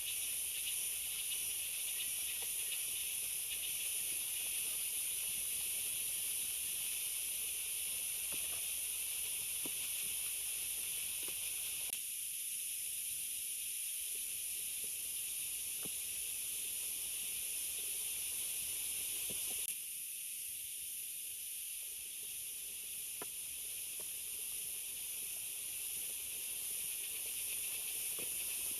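Steady rain falling in forest, a high, even hiss with scattered drops ticking. The hiss changes abruptly about 12 and 20 seconds in.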